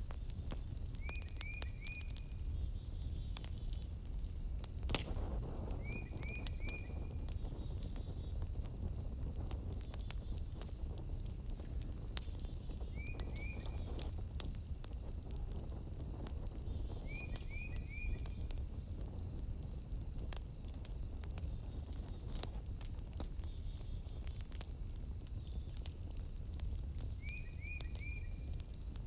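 Wood fire crackling with scattered sharp pops, over a low steady rumble and a steady high-pitched insect-like buzz. A short call of two or three quick chirps repeats five times at irregular gaps.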